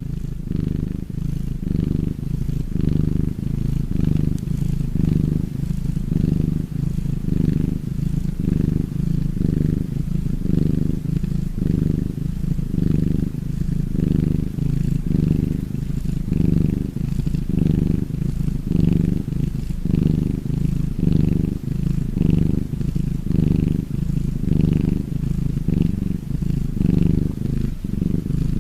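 Maine Coon cat purring loudly and steadily close up, the low rumble swelling and easing with each breath in and out, a little over one breath a second.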